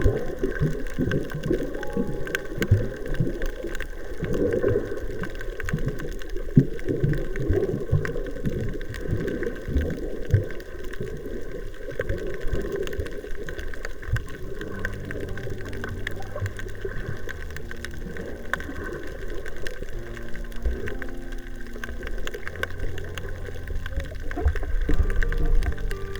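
Underwater recording of gurgling, bubbling water noise. From about halfway, steady low tones come in and step between pitches.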